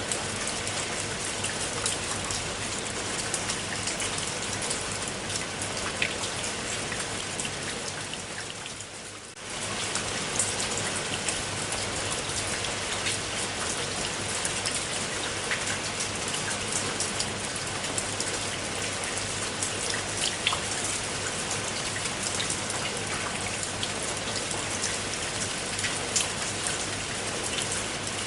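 Steady rain falling, with many individual drops ticking sharply on a surface. About nine seconds in it fades down briefly, then comes back suddenly at full strength.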